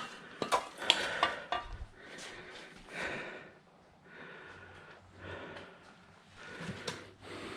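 A few sharp metal clanks of tools and parts in the first second or so, then a man breathing hard and blowing out through the pain of smacked fingers.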